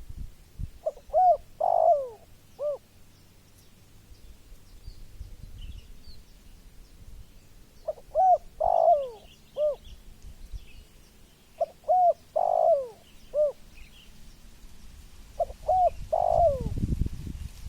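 Spotted dove cooing its phrase of short and drawn-out notes four times, with pauses of a few seconds between phrases. A low rumbling noise comes in near the end.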